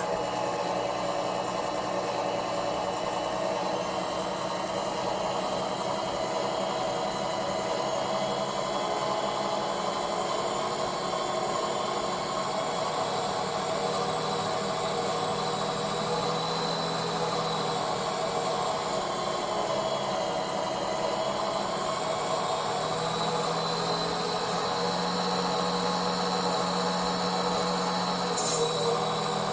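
Tamiya Scania R620 radio-controlled model truck running: a steady engine-type drone under a high whine that drifts down in pitch around the middle and back up later.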